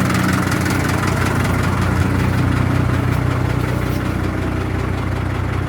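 Tractor and excavator engines idling steadily, left running to warm up just after being started.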